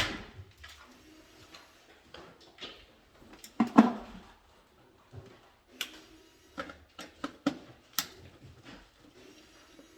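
Scattered clicks and knocks of small hard objects being handled, with a louder clatter about three and a half seconds in.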